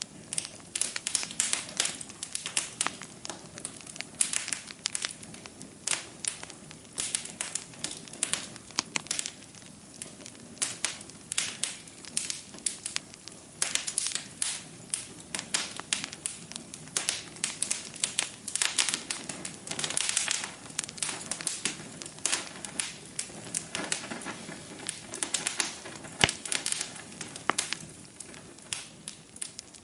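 Wood fire burning in a fireplace, with dense, irregular crackling and popping over a low steady rumble of the flames. One sharp pop stands out about 26 seconds in.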